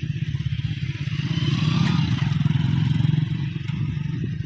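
A vehicle engine running close by with a fast, even low beat, growing louder for a couple of seconds in the middle and then easing off.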